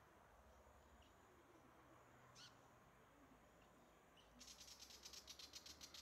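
Faint bird calls: a single short high call about two and a half seconds in, then a rapid harsh chattering of about ten notes a second over the last second and a half.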